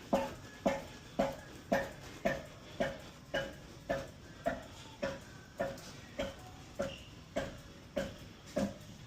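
Manual pallet jack wheels squeaking and grunting in a steady rhythm, about two sharp squeaks a second, as the jack is rolled along. The jack is faulty, called bogus and super bad.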